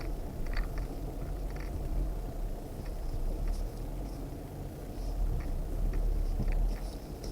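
Off-road vehicle's engine running low and steady while crawling slowly along a trail, with a few light clicks and rattles over it.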